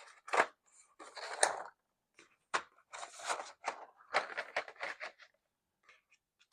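Colored pencils clattering and scraping against each other in irregular handfuls as they are sorted through to find one pencil.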